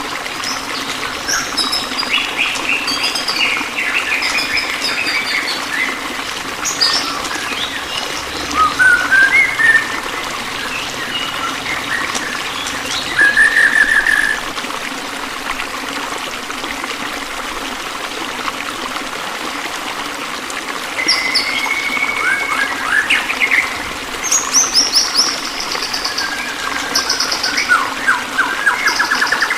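Several songbirds chirping, trilling and whistling in short varied phrases, in bursts with a quieter stretch in the middle, over a steady background of running water.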